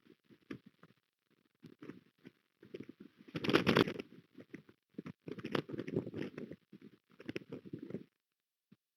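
Gusty wind buffeting the nest camera's microphone in irregular bursts with a crackling rustle, loudest about halfway through, cutting off suddenly near the end.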